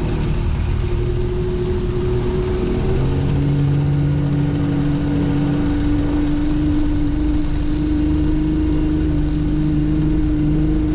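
A boat's engine running steadily; its pitch drops about three seconds in, then creeps slowly back up.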